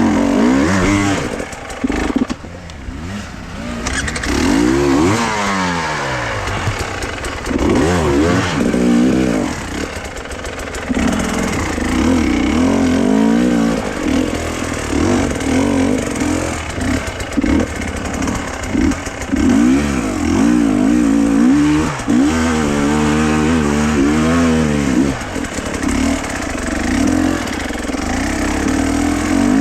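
Motor vehicle engine, heard as a motorcycle, running continuously while being driven, its revs rising and falling repeatedly as it speeds up and slows down.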